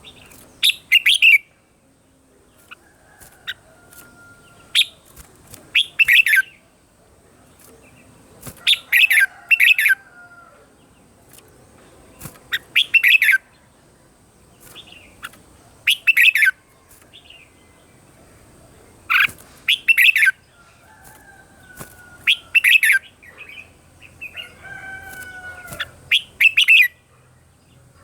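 Red-whiskered bulbul singing short, loud, chirpy song phrases about every three seconds. Fainter, lower whistled notes come in between.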